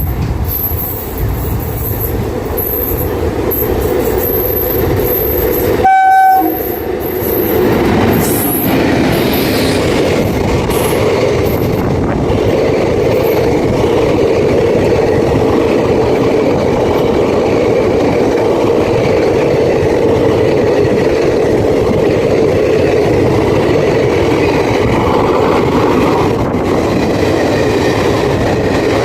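Indian Railways express train with an electric locomotive passing at speed. There is one short horn blast about six seconds in, then a long steady rumble and clatter of the coaches' wheels over the rails.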